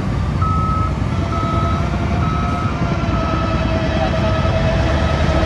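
Reversing alarm on heavy earthmoving equipment beeping about once a second over the low, steady rumble of a diesel engine, with a steady whine coming in about a second in.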